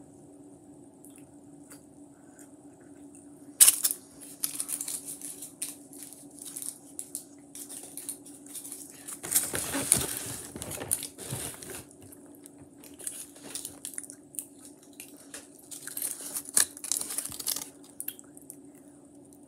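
Close, irregular crinkling, tearing and clicking handling noises, starting with a sharp click a few seconds in and coming in clusters, loudest about halfway through, over a steady low hum.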